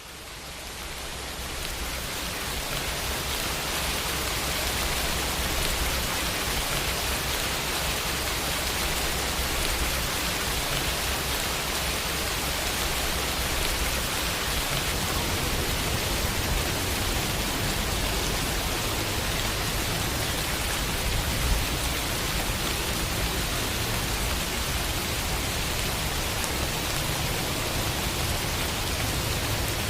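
Steady summer rain falling on a window, fading in over the first few seconds and then holding an even level.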